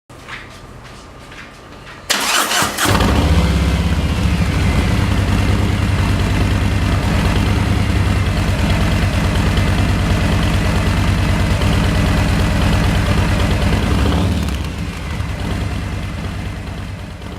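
Harley-Davidson V-twin motorcycle engine started: a faint hum, then the starter cranks briefly about two seconds in and the engine catches within a second. It then idles loudly and steadily, easing slightly quieter near the end.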